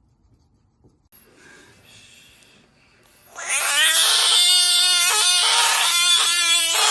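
A loud, long drawn-out animal cry, held at a fairly steady pitch, starting about three seconds in after some faint rustling.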